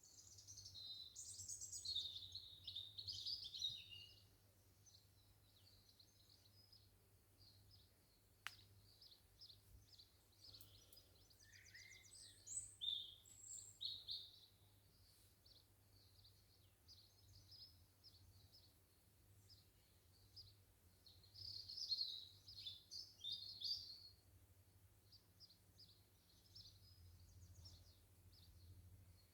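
Garden birds singing faintly: quick, high chirping and warbling phrases, strongest in the first few seconds, around the middle, and again about three-quarters of the way through.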